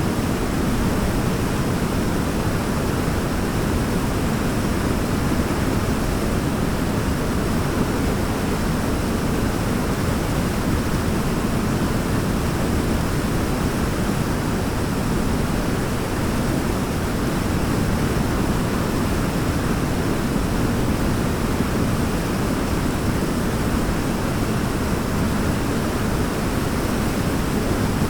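A waterfall's steady rush of falling water, unchanging and heaviest in the low range.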